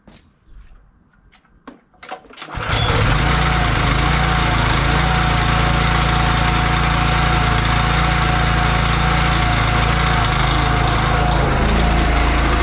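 Pressure washer starting up about two and a half seconds in and then running steadily and loudly, a constant hum and one steady tone under the hiss of the spray.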